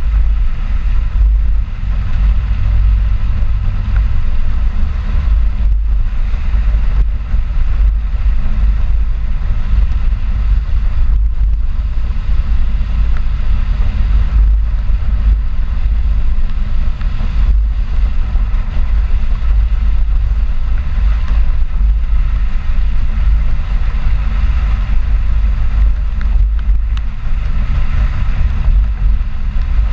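Ford 4x4 pickup truck driving: a loud, steady low rumble of engine and road noise.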